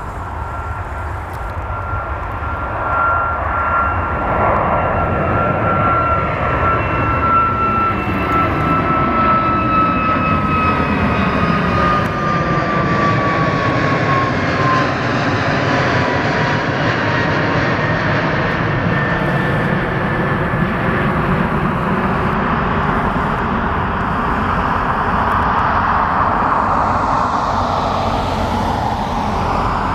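Jet airliner's engines passing close by: a steady roar that swells a few seconds in, with a high whine that slides down in pitch around the middle as the aircraft goes past.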